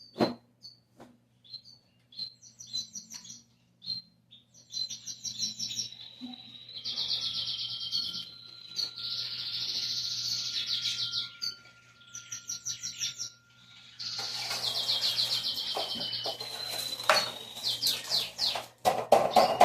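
Small songbirds chirping and singing in rapid high trills, over and over, with a knock near the start and a louder clatter of household noise right at the end.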